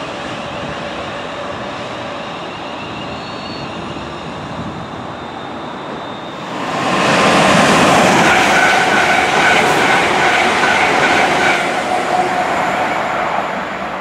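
A Class 350 Desiro electric multiple unit passes through a station at speed: a loud rush of wheel and air noise with steady electric whines. It rises suddenly about six seconds in and eases off near the end, after a stretch of quieter steady background noise.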